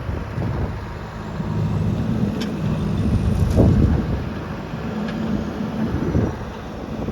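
JCB backhoe loader's diesel engine running hard while loading, swelling in level around three to four seconds in as it revs up, then easing back.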